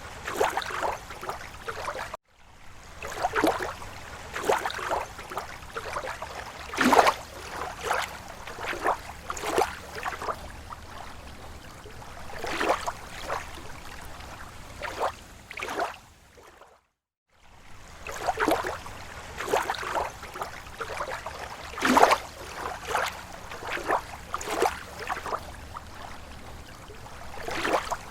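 Small slow waves lapping against a lake shore, an irregular run of splashes and gurgles over a steady wash of water. The sound cuts out completely for a moment twice, about two seconds in and again a little past halfway.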